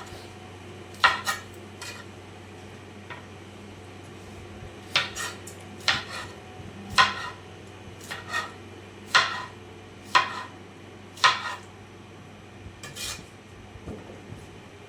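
Metal kitchenware clinking: about a dozen sharp knocks of utensils against pots and dishes, spaced irregularly, each with a short ring. A steady low hum runs underneath.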